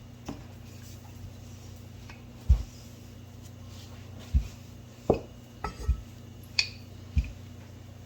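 Pizza dough being rolled out and turned on a counter: a series of about eight dull knocks and thuds, some in quick pairs, over a steady low hum.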